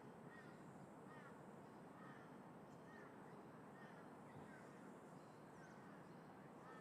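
Faint, distant crows cawing repeatedly, about one call a second, over a steady background rush of wind and traffic.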